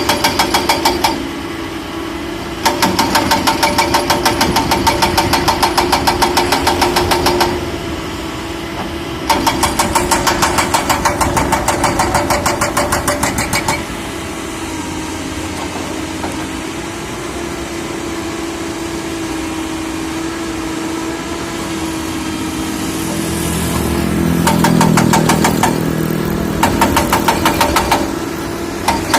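Excavator diesel engine running steadily under load, with several bursts of rapid, even hammering lasting a few seconds each, and the engine note deepening and getting louder about three-quarters of the way through.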